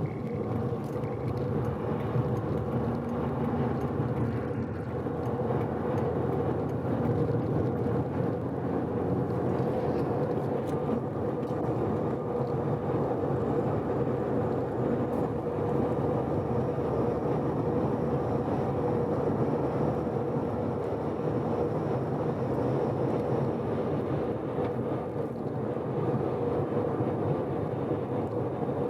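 Mazda FD3S RX-7's twin-rotor 13B-REW rotary engine and tyres droning steadily at constant expressway cruising speed, with no revving, while the freshly rebuilt engine is being broken in.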